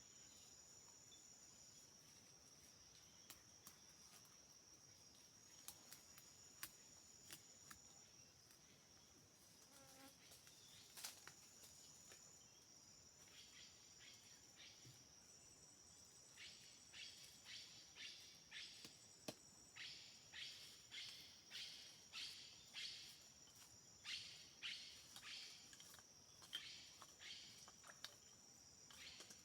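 Rainforest insects: a steady high-pitched buzzing trill with a few faint clicks. From about halfway, a second call comes in as a string of short rhythmic pulses, roughly two a second.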